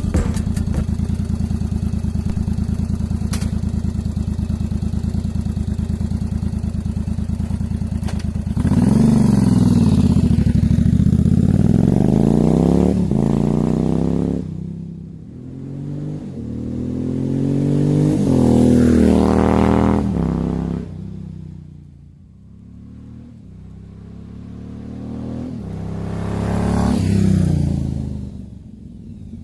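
Yamaha XV750 V-twin motorcycle with a Jardine exhaust and a single carburettor, idling steadily, then revving and riding off about eight seconds in; the engine note rises and falls through the gears and fades and swells twice as the bike moves away and back.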